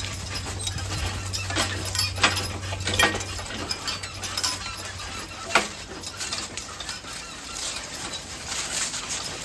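Horse-drawn wagon on the move: harness and hitch hardware clinking and squeaking, with scattered knocks and one sharper knock about five and a half seconds in. A low steady hum underneath stops a little past three seconds in.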